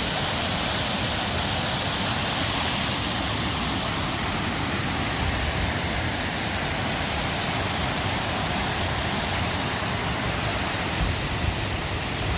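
A waterfall pouring steadily: a constant, even rush of falling water.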